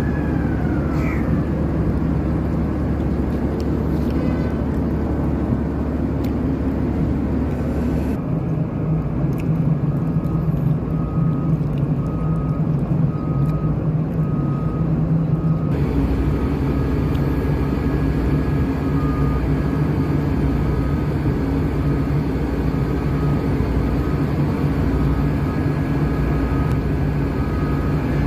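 Heavy diesel machinery running steadily with a deep, even hum, in three stretches that cut abruptly from one to the next. From about eight seconds in, a warning alarm beeps at an even pace, about one beep a second.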